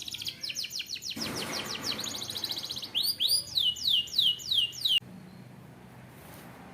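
Canary singing: a fast, high rattling trill, then about five loud, clear whistled notes that each sweep downward, cutting off suddenly about five seconds in.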